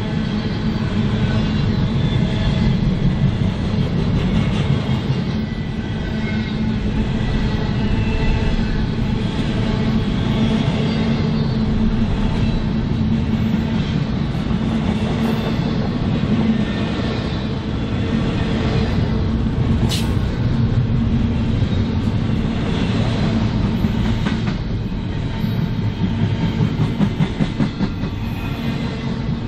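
Train rolling past, steel wheels on rail with a steady rumble and clickety-clack as wheelsets cross rail joints. A sharp click comes about twenty seconds in, and a quick run of wheel thumps near the end.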